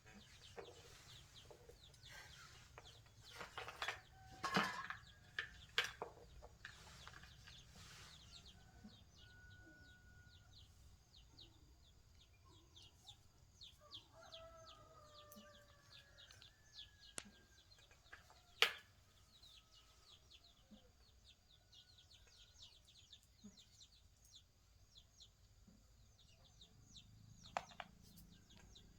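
Chickens clucking faintly in the background, with a cluster of clicks and knocks over the first several seconds and a single sharp knock a little past halfway, the loudest sound.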